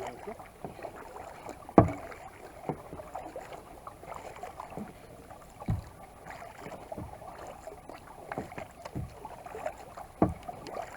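Kayak paddling on a lake: paddle blades dipping and pulling through the water with light splashes and drips, a stroke roughly every second, and a sharp knock about two seconds in.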